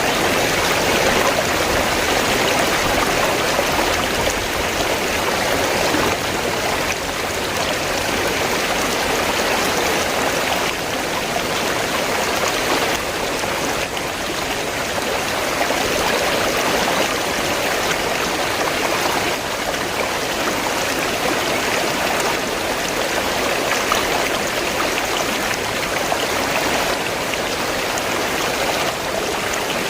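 River water flowing, a steady even rush of running water that does not change.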